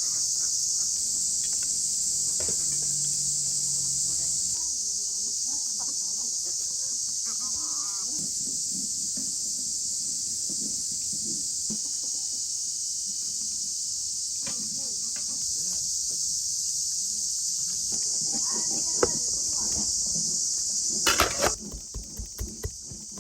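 A steady chorus of insects, a dense high hiss, runs in the background and drops away about 21 seconds in. A burst of sharp knocks follows, then quick, regular knocks near the end.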